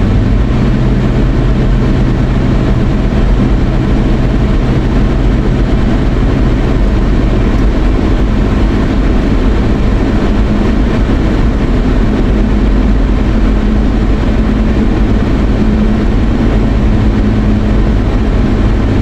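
Steady road noise and engine hum inside a moving car's cabin, with a low drone that shifts slightly in pitch.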